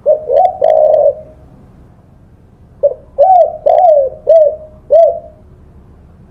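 Spotted dove (tekukur) cooing: a three-note phrase ending in a longer note at the start, then after a pause a run of five low, arching coos from about three seconds in.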